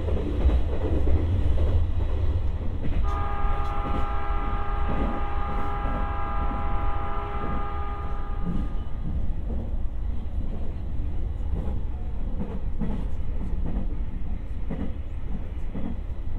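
Electric commuter train running, heard from inside the passenger car: a steady low rumble with scattered clicks from the track. About three seconds in, a steady ringing sound of several notes at once comes in and fades out over about six seconds.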